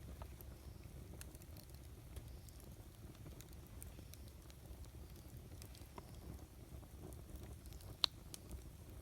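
Wood campfire burning: a low steady rumble with scattered small crackles, and one sharp pop of the burning wood near the end.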